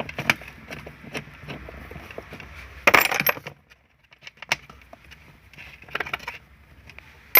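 Hand work on a distributor: scattered metallic clicks and clinks of the cap fastenings and tools being undone, with a louder clatter about three seconds in.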